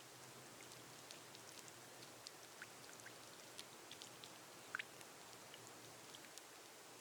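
Gentle rain on a glass roof: a faint, steady hiss with scattered drops ticking on the glass, one louder drop a little before five seconds in.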